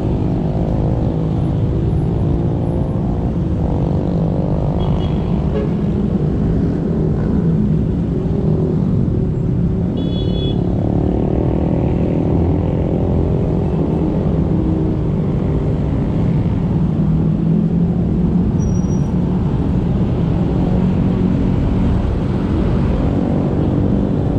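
Motorcycle engine running under way, with steady road and wind noise; its pitch rises and falls a little in the first few seconds as the revs change.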